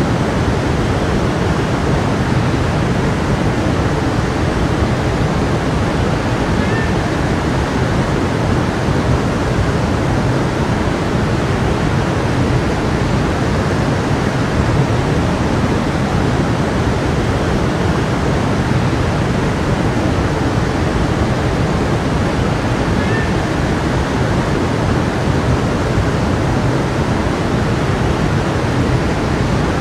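Flowing stream, water running in a steady, unbroken rush that is fullest in the low and middle range.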